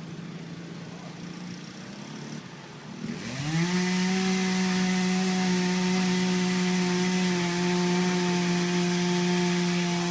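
Small dirtbike engine running low, then revving up about three seconds in and holding a steady, higher buzzing pitch.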